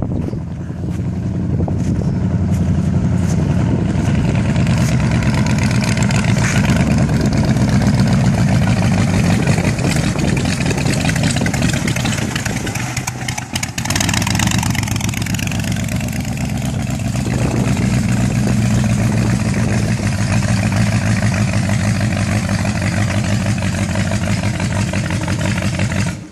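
Rat rod's exposed V8 engine with short open header pipes running loud and steady, with a brief dip about halfway through.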